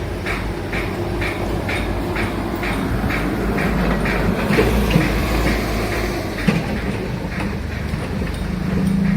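Heavy machinery running low and steady, with a regular clacking of about two to three knocks a second that fades out around the middle. A steadier engine hum grows louder near the end.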